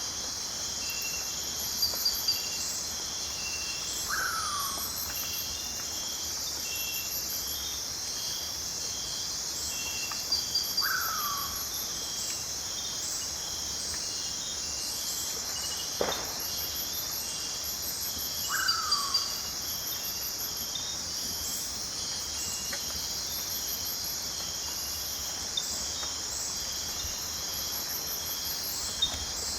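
Night rainforest insect chorus: a dense, steady high buzz of insects with repeating cricket-like chirps and pulsed trills. A short falling animal call sounds three times, about every seven seconds, and there is a single sharp click about halfway through.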